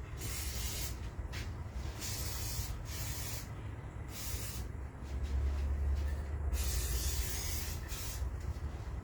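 An aerosol can spraying in several short hissing bursts, with a low hum for a moment in the middle.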